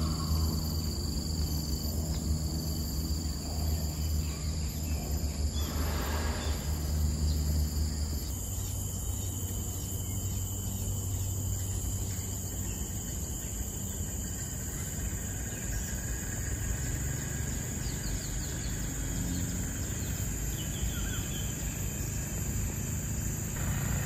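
Outdoor ambience: a steady, high insect drone over a low rumble, with faint bird calls. The sound changes abruptly about eight seconds in.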